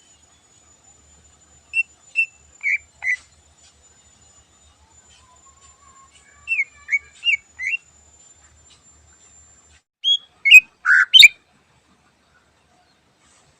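Cucak ijo (green leafbird) singing short whistled notes in separate phrases: two groups of four quick notes, then a louder, faster run near the end.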